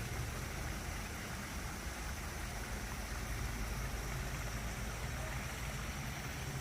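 Steady rushing of water from a small spring-fed waterfall, with a low rumble underneath.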